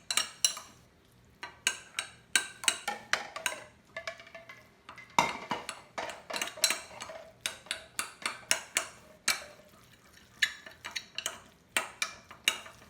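A utensil stirring hot macaroni and cheese in a bowl, clinking and knocking against the bowl in quick irregular strokes, a few a second, with one louder knock about five seconds in.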